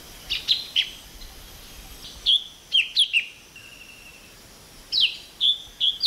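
A bird calling: three runs of three or four short, high notes that slide downward, one near the start, one in the middle and one near the end.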